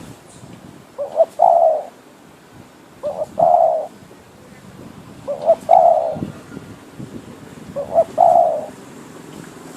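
A decoy spotted dove cooing. It gives four repeated phrases, roughly every two and a half seconds, each a couple of short notes and then a longer coo.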